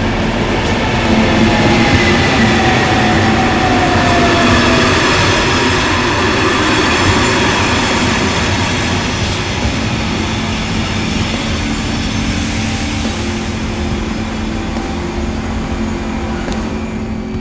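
SNCB AM96 electric multiple unit running past close by, with steady wheel and rail noise and traction hum. A whine falls in pitch over the first few seconds.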